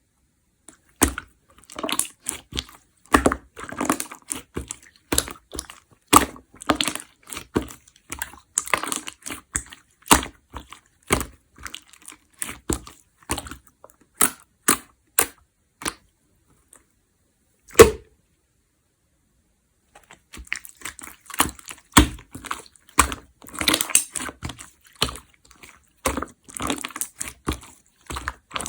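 Slime being squished and pressed in the hands, making an irregular stream of sharp, wet clicks and pops. About halfway through it stops for a few seconds, broken by one loud pop, then the clicking starts again.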